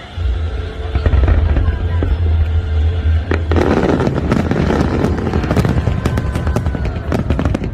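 Fireworks display: deep booms from the start, then from about three and a half seconds in a dense run of rapid crackling pops from crackle shells.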